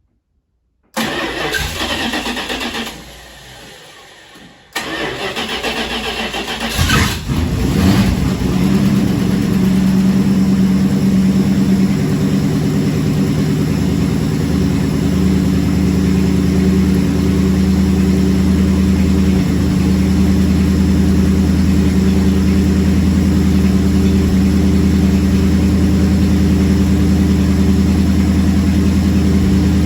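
Carbureted engine on a cold start: it is cranked over in two goes, catches about seven seconds in, and settles into a steady idle. The carburetion is judged well dialed in, and the engine sounds good cold.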